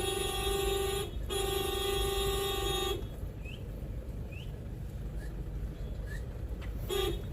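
Vehicle horn held in one steady tone, with a short break about a second in, then released about three seconds in. Faint bird chirps follow, and the horn gives a short toot near the end.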